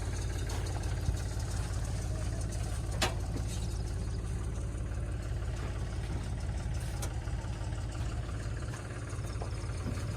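Diesel engine of heavy machinery idling steadily, with a sharp click about three seconds in.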